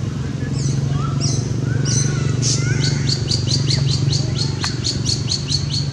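A bird calling in sharp, high, downward-sliding chirps: a few at first, then a fast even series of about four a second from a little before halfway. A steady low hum runs underneath.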